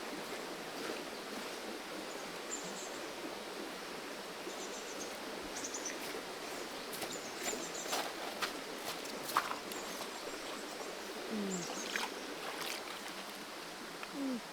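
Steady rush of a small forest creek's flowing water, with a few sharp clicks and faint short high chirps over it.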